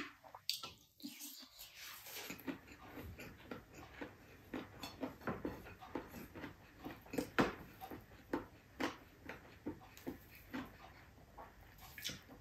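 A person chewing and smacking food while eating by hand: irregular wet mouth smacks and clicks, about one to two a second.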